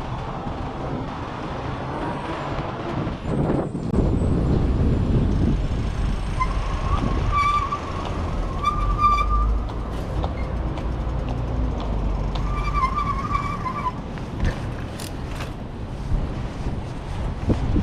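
Wind buffeting the microphone, a steady low rumble, with a few short high squeals about halfway through.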